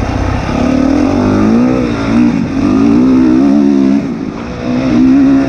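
Honda CRF450 dirt bike's single-cylinder four-stroke engine revving up and down under riding throttle. The throttle is shut briefly about four seconds in, then opened hard again.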